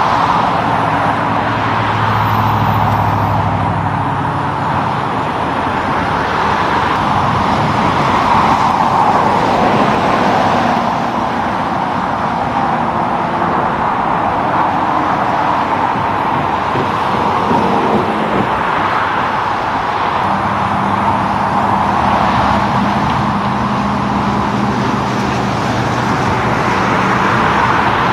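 Highway traffic going by: a steady rush of tyre noise, with the low engine hum of heavy trucks passing, one in the first few seconds and another in the second half.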